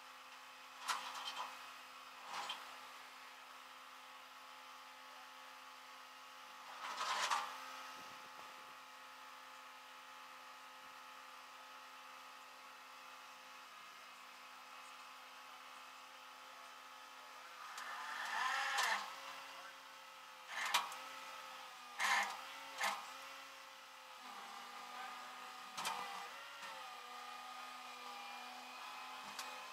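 Vehicle engine droning steadily inside the cab, with a few sharp knocks and bumps. From about two-thirds of the way in, the engine's pitch shifts up and down and the bumps come more often.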